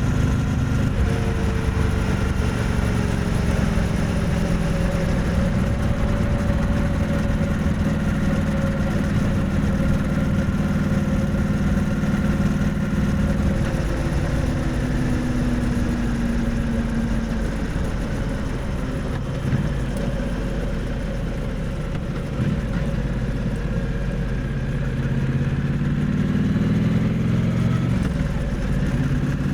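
Triumph Bonneville T100's parallel-twin engine and exhaust running under way, heard close to the exhaust. The engine note eases down about halfway through, stays lower for several seconds, then climbs again near the end.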